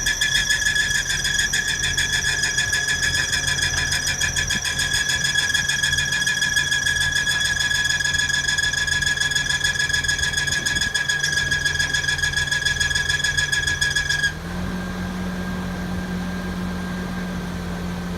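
Engine running with an abnormal steady high-pitched squeal that flutters rapidly over its low hum. About fourteen seconds in the squeal cuts off abruptly and the engine hum steps up a little in pitch.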